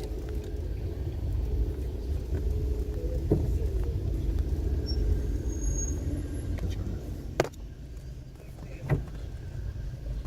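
Car on the move, heard from inside: a steady low rumble of engine and road noise, with two sharp knocks in the last few seconds.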